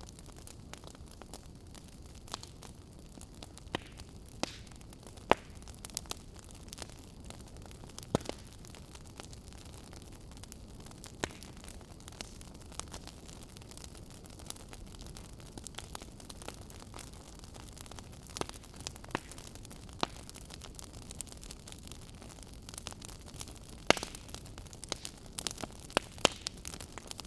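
Wood fire burning in a fireplace: a steady low hiss with irregular sharp crackles and pops, a few louder snaps among them.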